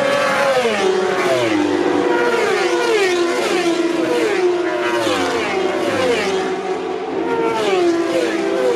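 Superstock racing motorcycles passing at speed one after another. Each engine note drops in pitch as the bike goes by, in a continuous stream of pass-bys.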